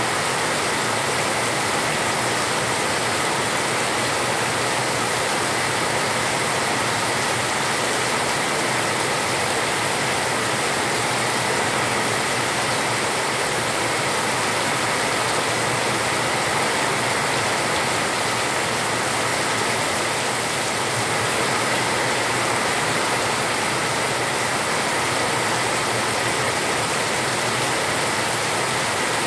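Heavy rain pouring steadily onto a concrete yard: a constant, even hiss with no breaks.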